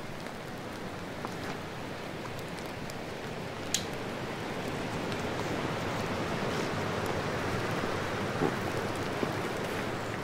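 Steady rain falling, growing a little louder in the second half, with a few sharp ticks, the clearest about four seconds in.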